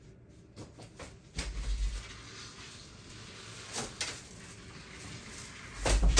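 Handling noises: a few light clicks, then rustling with two heavy thumps, one about a second and a half in and a louder one near the end.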